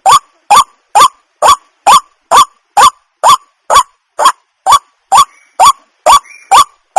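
White-breasted waterhen calling: a loud, sharp note that sweeps upward in pitch, repeated evenly about twice a second in an unbroken run.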